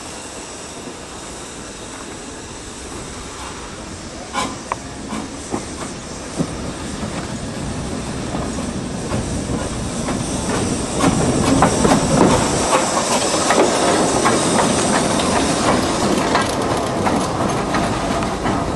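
Narrow-gauge steam train running on the track, wheels clicking and clanking over rail joints with a hiss of steam. The clatter grows louder and busier a little past halfway.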